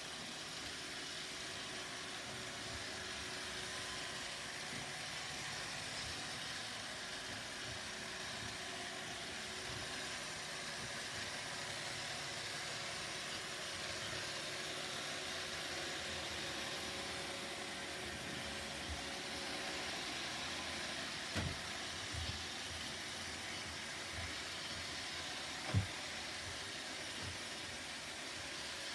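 Roomba robot vacuum running: a steady whirring hum of its vacuum motor and brushes, with a few short knocks in the second half, the loudest near the end.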